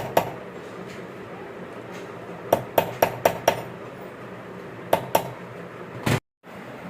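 Sharp metallic taps of a hammer on metal turbocharger parts: one tap, then a run of five at about three a second, then two more and a heavier strike, after which the sound cuts out briefly.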